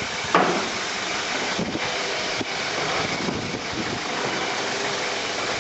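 A vehicle engine running steadily, with a sharp knock about a third of a second in and fainter knocks a little later.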